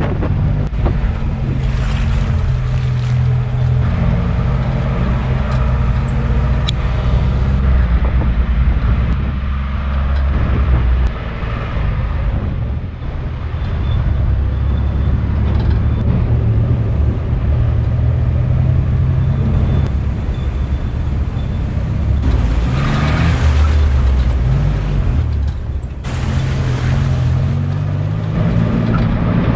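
Off-road vehicle engine running steadily and revving, its pitch stepping and gliding up and down, with short rushes of hiss over it.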